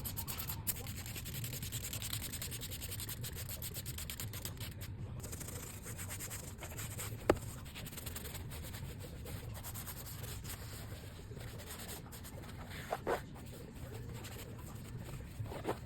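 Fast, steady scrubbing on a truck door's surface during detailing, with one sharp click about seven seconds in and a few short squeaks near the end.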